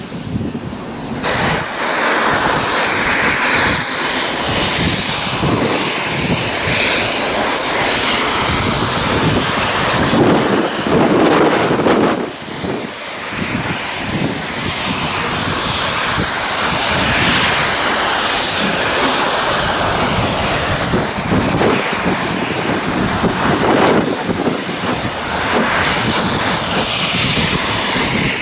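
Steam locomotive giving off a loud, steady rush of steam that comes in abruptly about a second in and holds, swelling a little now and then.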